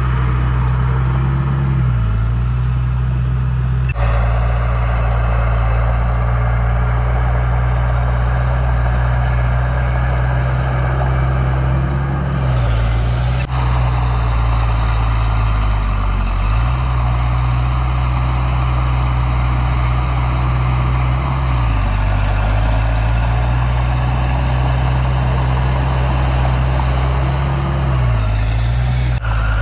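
Heavy diesel engine of earthmoving machinery running steadily, its pitch dipping and recovering every few seconds as the load changes. The sound breaks off and picks up again sharply a few times.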